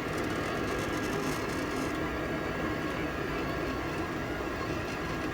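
Steady whir of a delta 3D printer's cooling fans, with faint steady tones over a hiss, as the printer sits heating up before a test print.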